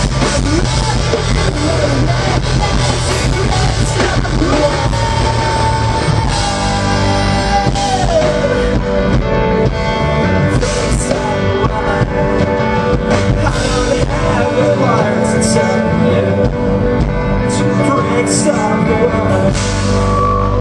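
Live rock band playing loudly: guitars and drum kit with singing. About four seconds in, a long note is held for several seconds, then bends down.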